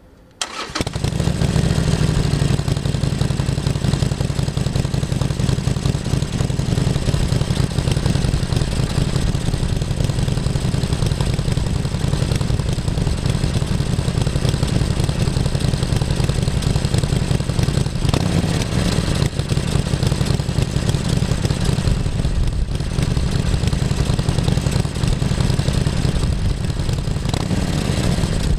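2017 Harley-Davidson Sportster XL1200CX's 1200 cc V-twin being started. It catches within about a second, then idles steadily through its exhaust.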